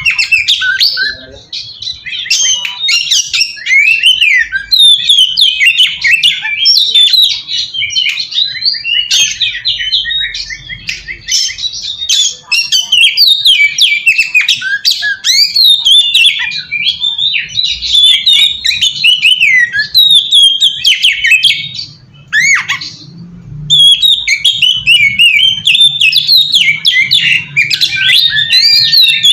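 Oriental magpie-robin (kacer) singing without pause: a loud, fast, varied song of rising and falling whistles and chattering phrases, with a brief break about 22 seconds in.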